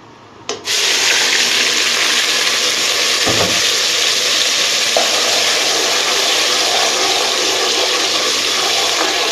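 Blended onion paste poured into hot oil with cumin, setting off a loud, steady sizzle about half a second in, with a low knock a few seconds later.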